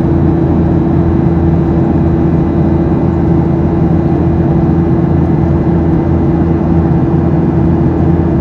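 Boeing 737-700 cabin noise: its CFM56-7B jet engines running at steady power, a constant rumbling drone with a held buzzing hum.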